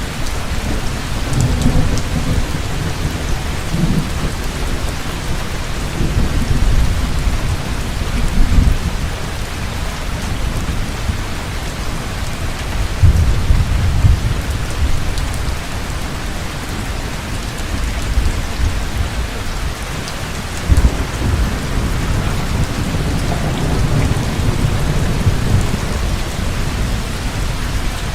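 Heavy rain falling steadily, with low thunder rumbling in and out several times, loudest about halfway through.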